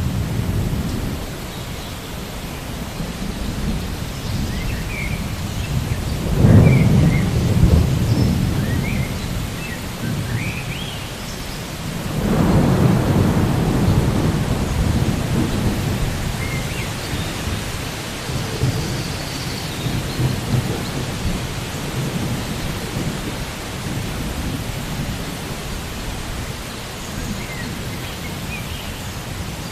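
Steady rain with thunder rolling twice, about six seconds in and again about twelve seconds in, the second roll longer and slowly dying away. A few faint high chirps sound over it.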